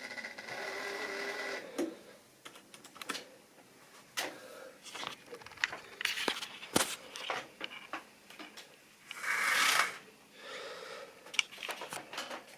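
Small electric motor of a model railway locomotive running with a steady whine, which stops about two seconds in. Scattered clicks and light knocks follow, with a brief rustle near the end.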